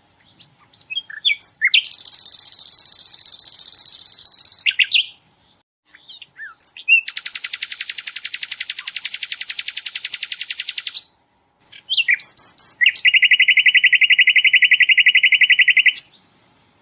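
Sikatan londo singing: three long, very rapid trills of three to four seconds each, the last one lower-pitched, each led in by a few short sharp notes. These are the bursts (tembakan) prized in its song.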